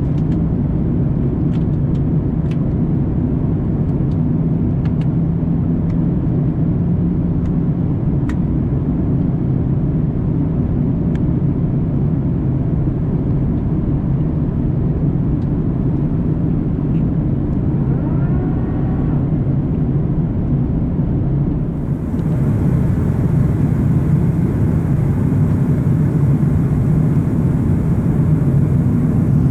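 Cabin noise of an Airbus A340-300 taxiing: a steady low rumble and hum, with light clicks now and then in the first third. About two-thirds of the way through the sound suddenly gains a hiss and grows slightly louder.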